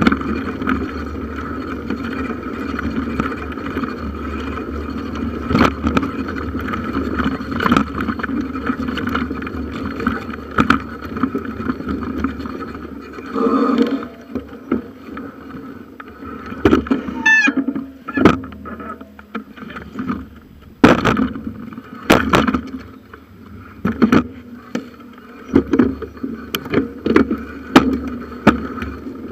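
Bicycle ridden along a forest track, heard through a handlebar-mounted camera: a steady hum of tyres and rattle for the first half, then a quieter, bumpier stretch with many sharp knocks and rattles as the wheels go over rough ground. A short squeak about halfway through.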